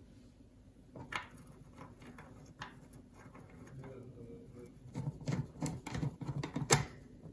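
Clicks and knocks of a power supply being put back together by hand, its metal case and parts handled. A few single clicks at first, then a busier run of clattering from about five seconds in with one sharp click near the end.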